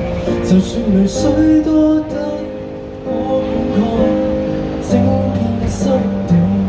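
Live music from a small band with guitars and keyboard, playing a Cantopop song.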